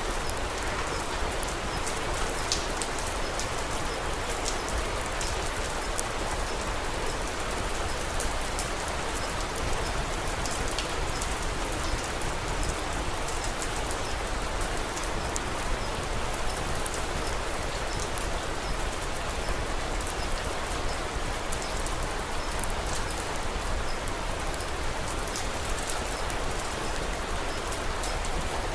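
Steady rain falling, mixed with the frequent small, sharp pops and crackles of a wood fire.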